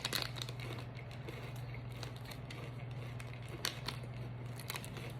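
A few faint crunching clicks of Reese's Pieces candy being eaten, over a steady low hum of room tone.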